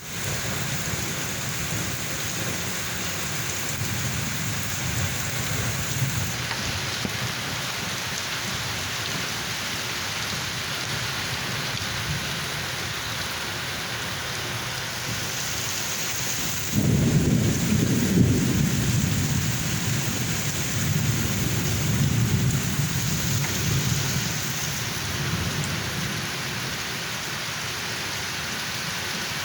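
Steady rain falling, heard as an even hiss. About halfway through, a roll of thunder comes in suddenly and rumbles on for several seconds before dying away under the rain.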